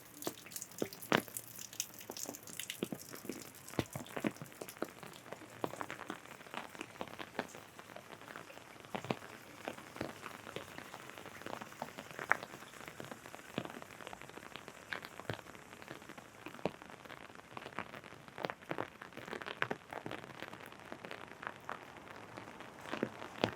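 Steady rain, with many irregular drops tapping sharply on an umbrella overhead.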